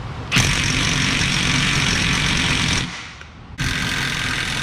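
Cordless impact wrench running in two long bursts on a suspension control-arm bolt, with a short pause between them.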